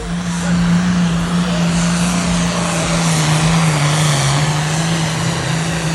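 Pulling truck or tractor engine running flat out under heavy load as the sled is dragged down the track, a steady loud note that sags a little in pitch about halfway through and then recovers.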